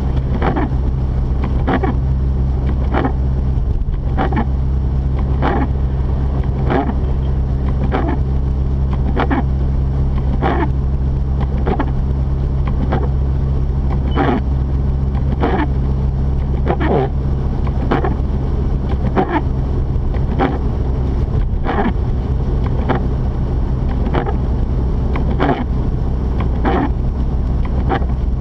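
Mazda RX-8's rotary engine and tyres droning steadily from inside the cabin while driving on a snowy road. The windshield wipers swish about once every second and a half.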